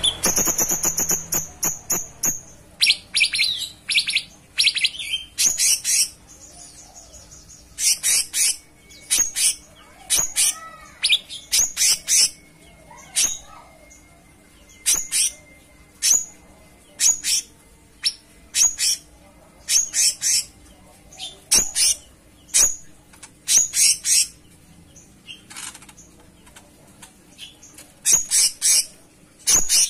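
Cucak cungkok songbird singing in full voice: short, sharp, high chirping phrases repeated about every second, with brief pauses between clusters and a few lower warbled notes mixed in.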